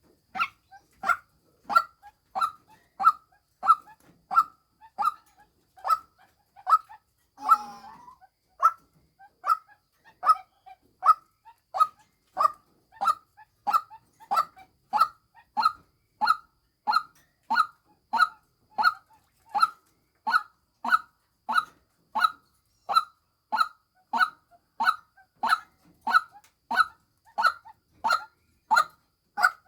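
White-breasted waterhen (female) giving its monotonous, evenly repeated 'kwak' call, about three notes every two seconds, the call used as a lure. About seven seconds in, one longer, rougher call breaks the rhythm.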